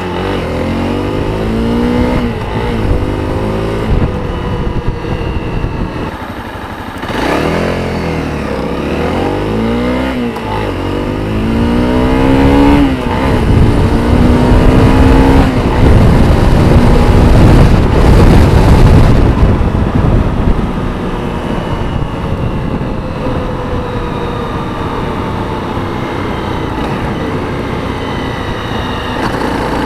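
Honda CRF 250's single-cylinder four-stroke engine through its stock exhaust, revved in repeated quick blips that rise and fall back. It gets louder and rougher for several seconds around the middle, then settles to a steadier, lower run.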